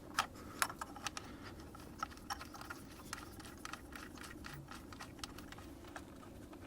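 Scattered light plastic clicks and taps, irregularly spaced, of an ignition coil's electrical connector being worked loose and unplugged from the number 1 coil on a four-cylinder engine.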